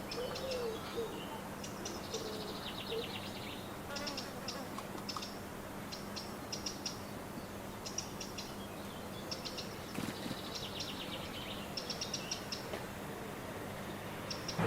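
Small songbirds chirping and trilling again and again, in short high bursts and quick rattling trills. Low cooing notes sound under them in the first few seconds.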